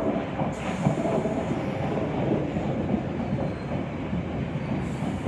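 London Underground 1960 stock track recording train running, a steady rumble of wheels on rail and traction motors, with a short hiss of high noise about a second in.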